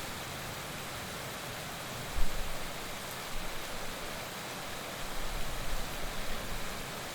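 Heavy rain falling as a steady, even hiss. A sudden low rumble comes about two seconds in, and more low rumbling follows in the second half.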